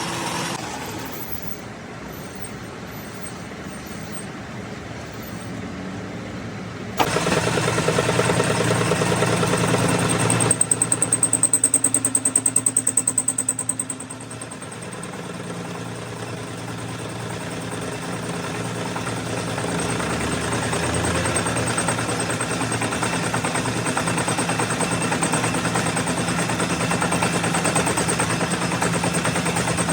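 A machine running continuously with a steady hum. It gets suddenly louder about seven seconds in, and has a louder, rapidly pulsing stretch from about ten to fourteen seconds before easing and building up again.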